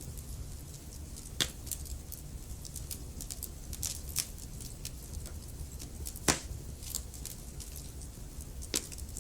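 Wood fire crackling in a fireplace: a steady low rumble of the flames under frequent small snaps, with three louder pops, about one and a half, six and nine seconds in.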